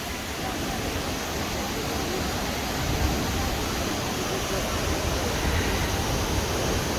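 Steady rush of flowing water from a stream or small waterfall, an even hiss with a low rumble underneath.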